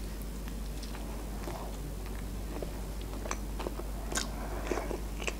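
A person chewing a mouthful of KFC Bigger burger: soft wet mouth clicks and smacks, a few sharper ones from about four seconds in.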